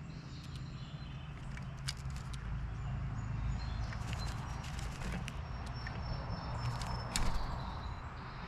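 Birds at a feeder: scattered sharp taps and clicks, with short thin high-pitched bird notes, one held for about a second near the end, over a low steady rumble.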